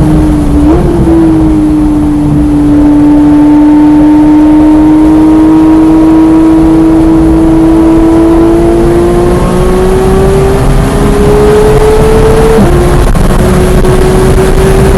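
Porsche 991.1 GT3's naturally aspirated flat-six pulling under load, heard from inside the cabin, its pitch rising slowly and steadily for most of the time. Near the end it drops briefly in a quick upshift and then carries on climbing, over a constant rumble of tyre and road noise.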